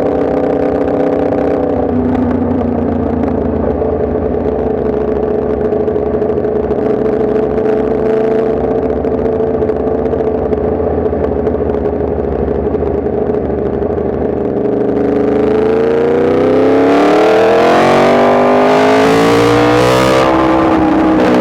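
Yamaha MT-10 SP's crossplane inline-four engine running under way at a steady pitch. About three-quarters of the way in it gets louder and the revs climb, dip and climb again as the bike accelerates.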